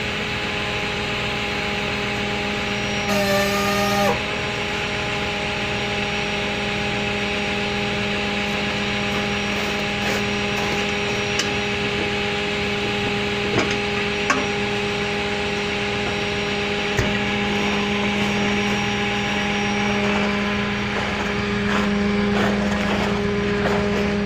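A vehicle engine running steadily at constant speed, a droning hum with a few light clicks. Its pitch shifts briefly about three seconds in.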